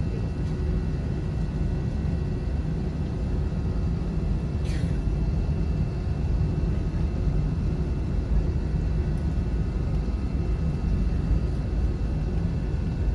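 Airliner cabin noise on the ground: a steady low rumble with faint steady whining tones from the jet engines running before take-off.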